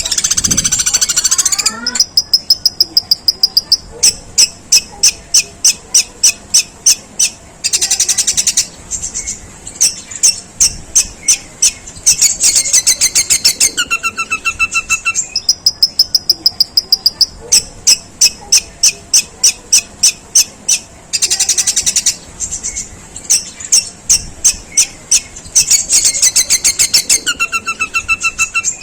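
Long-tailed shrike singing long, harsh volleys of rapid, high chirps copied from the Eurasian tree sparrow, about three notes a second. The volleys are broken several times by short stretches of dense, rasping chatter.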